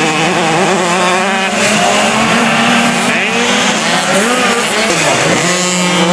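Several 50cc two-stroke motocross bikes racing, their high-pitched engine notes overlapping and rising and falling as the riders open and close the throttle.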